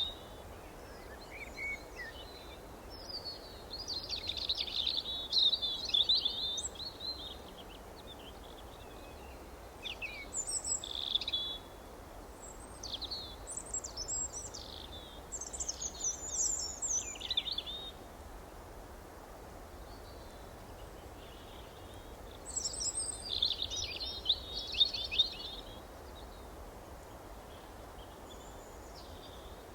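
Songbirds chirping and twittering in bursts of quick, high phrases with gaps of a few seconds between them, over a steady low background hiss.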